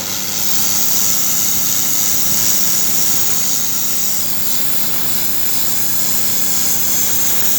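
Pressure washer running steadily, its motor humming under the high hiss of the water jet spraying a stone wall.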